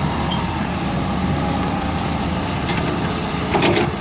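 Heavy-equipment engine running steadily, with a brief louder noise about three and a half seconds in.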